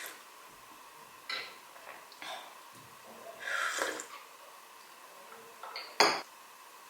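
Small handling sounds of household objects: a couple of light knocks, a brief swish in the middle, and one sharp click near the end.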